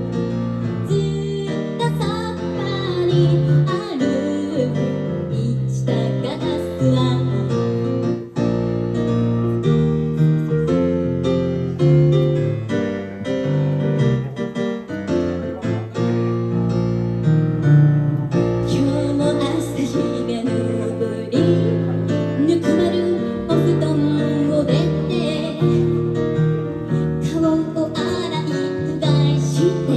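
Live acoustic music mid-song, with held chords from a piano or keyboard; no lyrics are picked out in this stretch.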